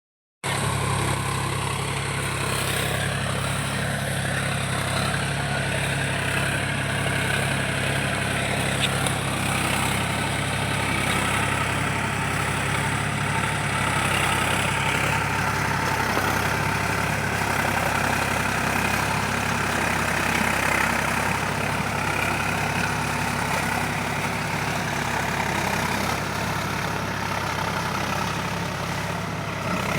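Mahindra 275 DI tractor's three-cylinder diesel engine running steadily.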